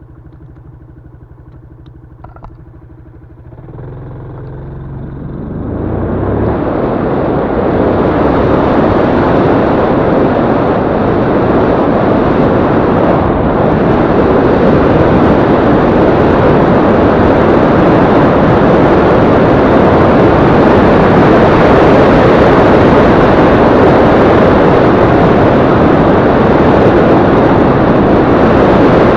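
Yamaha Crypton-X motorcycle's small single-cylinder engine running quietly at first. From about four seconds in the sound swells as the bike gathers speed, and a loud, steady rush of wind over the microphone buries the engine.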